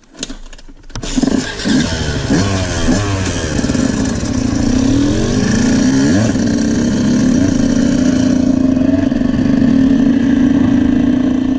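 Motorcycle engine pulling away hard, its pitch climbing in several quick rising sweeps through the gears, then holding a steady note at cruising speed.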